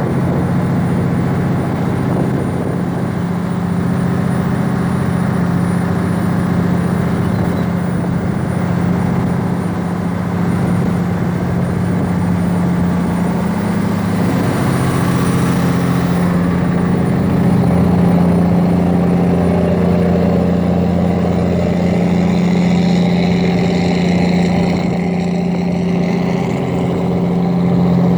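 A steady engine drone, a low hum that holds at one pitch without rising or falling.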